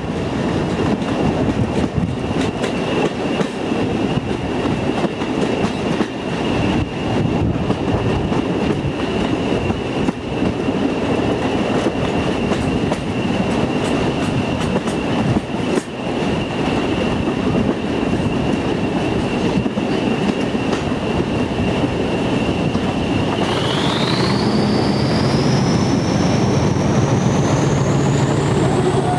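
Diesel-hauled heritage passenger train heard from a carriage window, its wheels clattering over the rail joints under a steady high whine. About three-quarters of the way through the whine starts rising in pitch and a deeper engine note comes up: the locomotive, Class 55 Deltic 55022 or Class 40 40135, is opening up.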